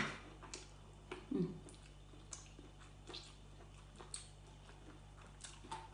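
Faint chewing and wet mouth sounds from someone eating by hand: scattered soft clicks and smacks, with a short hum about a second in.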